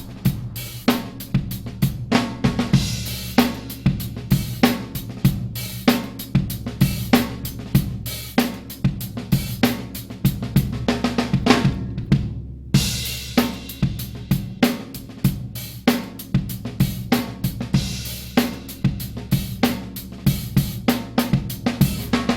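Recorded drum kit track playing a steady beat of kick, snare, hi-hat and cymbals, with a brief break about twelve seconds in.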